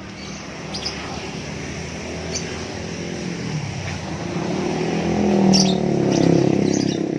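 A motor vehicle passing, its engine hum swelling to its loudest about two-thirds of the way through and then easing off. Songbirds give a few short, high chirps over it.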